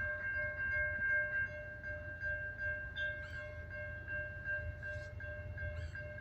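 Freight train approaching: several steady high tones held together over a low rumble, the tones stopping near the end.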